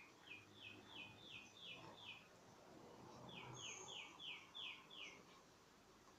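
Faint bird song: two series of about six quick, downward-slurred notes, the second a second or so after the first ends.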